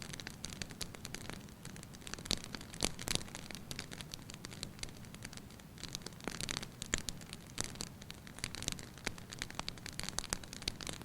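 Wood fire burning in a fireplace: irregular crackles and pops, thicker in a few short clusters, over a low steady rumble of the flames.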